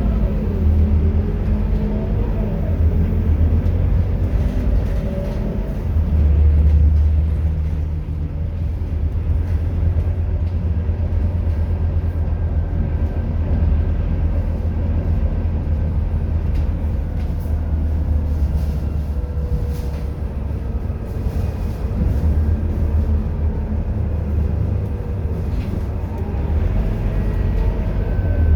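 Scania K230UB city bus's five-cylinder diesel engine running while the bus is driven: a steady low rumble, with the engine note rising and falling in the first few seconds.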